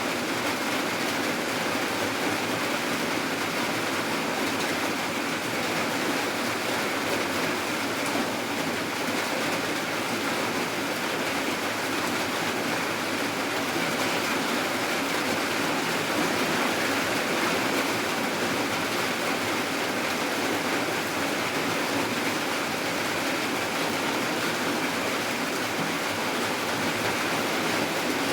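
Steady heavy rainfall, an even wash of rain noise with no breaks or distinct drops standing out.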